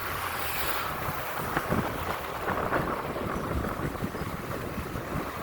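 Wind buffeting the microphone of a camera on a moving bicycle, over a steady rumble of city street traffic, with uneven low knocks.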